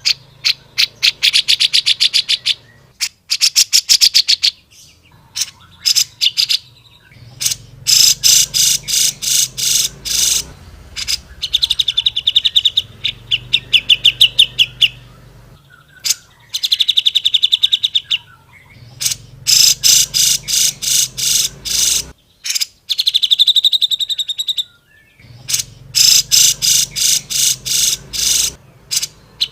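Cucak jenggot (grey-cheeked bulbul) singing loudly in repeated bursts of rapid, chattering notes and buzzy trills, with short pauses between phrases.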